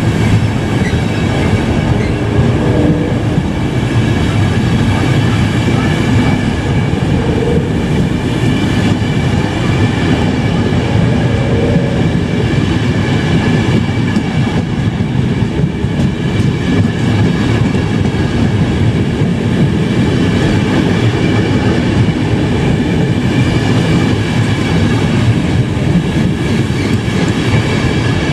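A long express train of passenger coaches rolling steadily past a station platform: a constant wheel-on-rail rumble with a faint steady high-pitched whine above it.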